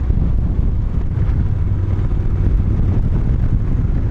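Wind rushing over the microphone of a moving Moto Guzzi motorcycle, with the engine running steadily underneath as a low rumble.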